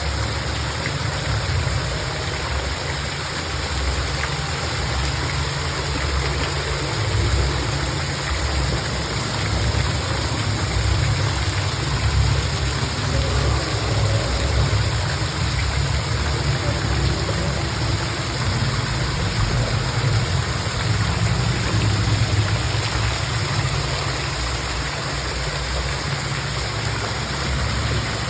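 Steady rushing noise with a fluctuating low rumble underneath.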